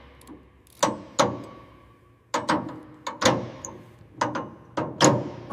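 A series of about a dozen sharp knocks in irregular clusters, each ringing briefly before it fades.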